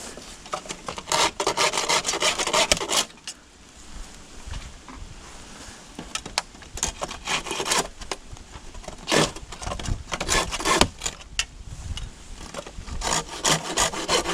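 Hand saw for bamboo cutting through a bamboo culm. Quick back-and-forth rasping strokes come in four bouts, with short pauses between them.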